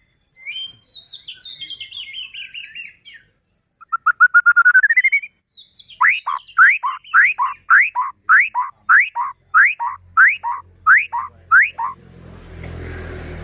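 White-rumped shama singing: scratchy chatter, then a fast trill rising in pitch, then a run of about eleven loud upward-sweeping whistled notes, roughly two a second. Near the end a noisy low rumble comes in.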